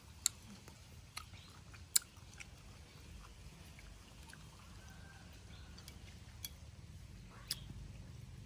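A person chewing a mouthful of shell-on shrimp and vegetables, close up, with several sharp crunchy clicks; the loudest come near the start and about two seconds in.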